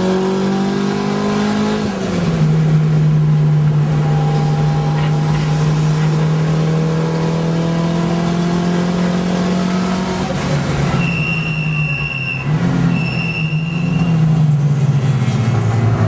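Mitsubishi Lancer Evolution V RS's turbocharged four-cylinder engine pulling hard, heard from inside the cabin. Its pitch drops with an upshift about two seconds in, then climbs slowly. Near the end the revs rise and fall, and a high whine sounds twice.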